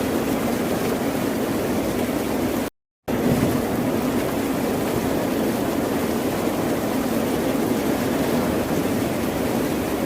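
Ocean surf washing continuously, an even, steady noise with its weight low in pitch. About three seconds in, the sound cuts out to dead silence for about a third of a second, a dropout in the recording, then resumes.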